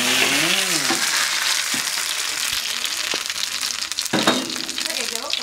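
Shredded lemongrass leaves deep-frying in hot oil in a steel wok: a loud, steady sizzle.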